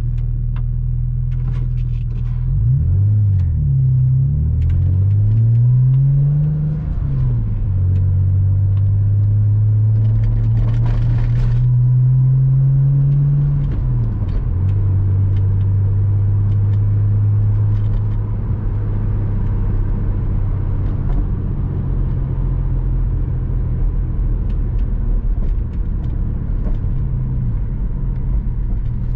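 Porsche Boxster 986's flat-six engine on the move, its revs rising and falling several times in the first few seconds. The revs then climb slowly, drop sharply about halfway through as a gear changes, and settle into a steady low cruise.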